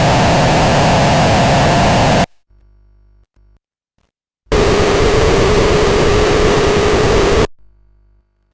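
Sovage Engineering OXYMORON Eurorack noise-generator module, fed a sine-wave source, giving a harsh, dense noise with a buried pitched buzz. It sounds twice, first for about two seconds, then after a silent gap for about three seconds at a lower pitch, as different outputs are heard in turn.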